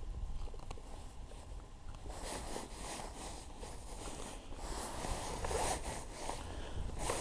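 Close rustling and scraping handling noise in short rasping strokes, starting about two seconds in, with the loudest stroke near the end.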